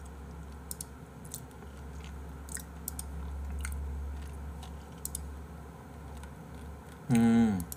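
Faint close-miked chewing and mouth sounds with scattered soft clicks over a low steady hum. A short hummed vocal sound, falling in pitch, comes near the end.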